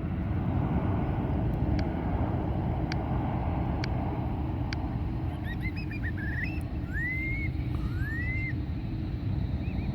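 Jet airliner's engines, a steady low rumble as the plane comes in to land. In the second half a bird gives several short rising whistles.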